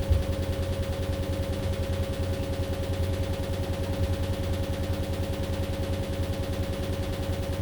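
AQUA AQW-DX12M drum washing machine running, with a steady motor whine over a fast, even rattling pulse.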